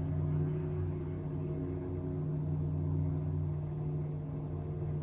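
A steady low machine hum, made of several fixed tones, with a few faint light ticks over it.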